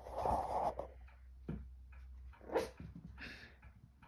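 A tiny chihuahua making a few short, quiet vocal sounds, spaced apart, as she reacts to her reflection.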